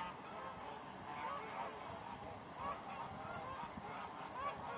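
A flock of domestic geese honking, with many short calls overlapping one another.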